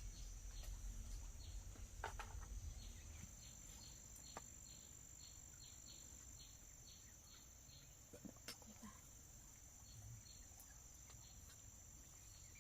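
Faint insects chirring steadily in a high, thin tone, with short chirps repeating over it, like crickets, and a few soft clicks.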